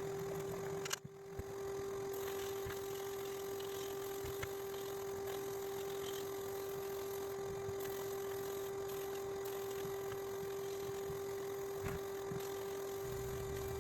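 Electric motor of an Ilco 017 key duplicator running steadily with a constant hum, briefly dropping out and coming back about a second in.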